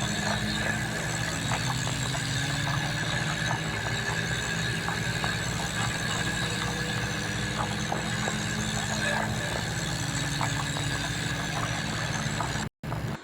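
Tractor engine running steadily, with a steady high-pitched tone over it and scattered clicks; the sound cuts out briefly near the end.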